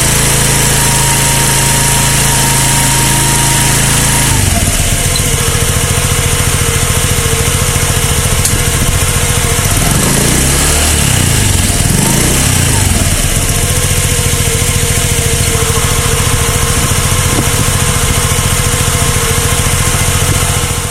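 Honda PCX scooter's single-cylinder engine running, its note dropping about four seconds in, then rising and falling in pitch around the middle before settling steady again. It is recorded for a noise from the rear that the owner calls abnormal.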